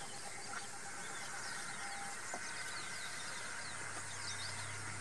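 Birds chirping: many short, high, falling chirps throughout. A low steady hum comes in near the end.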